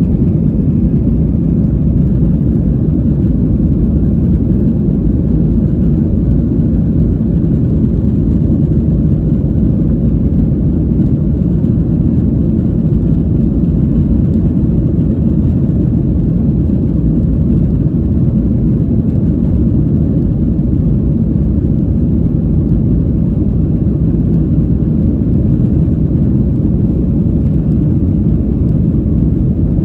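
Jet airliner's engines and rushing air heard from inside the cabin during takeoff: a steady low rumble.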